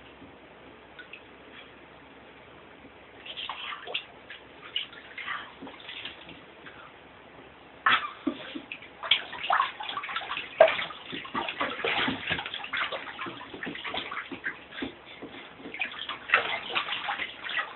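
Water splashing and sloshing in a bathtub as a dog moves about in it, in irregular bursts that start a few seconds in and grow busier about eight seconds in.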